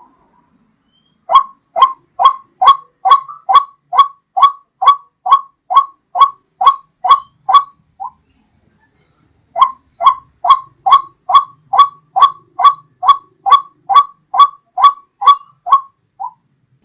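White-breasted waterhen calling as a recorded lure: a rapid, even series of loud 'ruak' notes, about two and a half a second. It comes in two bouts of some seven seconds each, separated by a silent gap of about a second and a half, and each bout ends on a weaker note.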